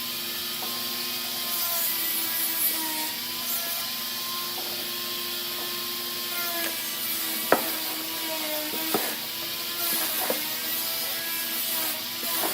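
Electric power tool running against wood, its motor whine drifting in pitch as it loads, over a steady gritty hiss, with a few sharp knocks in the second half.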